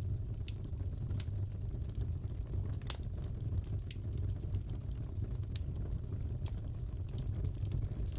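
Crackling fireplace: a steady low rumble of the fire with scattered sharp pops and crackles, one louder pop about three seconds in.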